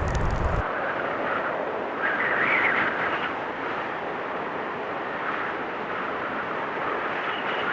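Blizzard wind blowing steadily, swelling in gusts about two seconds in and again near the end. A lower rumbling layer underneath cuts off suddenly about half a second in.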